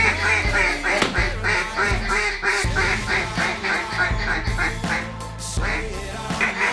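A rapid run of duck quacks, about four or five a second, over background music with a steady bass line. The quacks pause briefly near the end, then resume.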